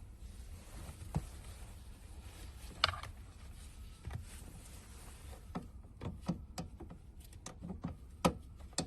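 Scattered light clicks and knocks of hands working plastic connectors on a fuel pump module, coming more often in the second half, over a low steady hum.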